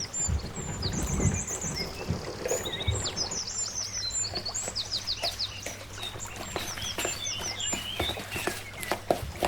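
Small birds chirping repeatedly in quick, high, falling notes, over scattered light clicks and knocks.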